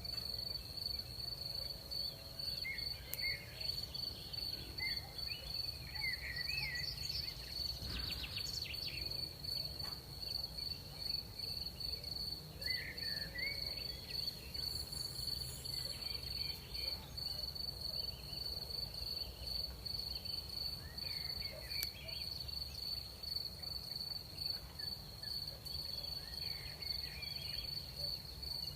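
Crickets chirring steadily in one continuous high trill, with short gliding chirps breaking in now and then over a low background rumble.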